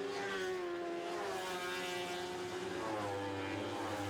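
Several Lightning Sprint cars racing, their high-revving engines held in one race gear. The pitch drifts slowly down, and a second engine note comes in about three seconds in.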